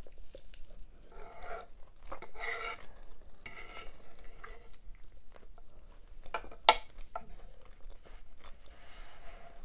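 Close-up eating sounds: chewing and wet mouth sounds from eating cheesy beef Alfredo pasta, in several short bouts, with small clicks and one sharp clink about two-thirds of the way in, the loudest sound.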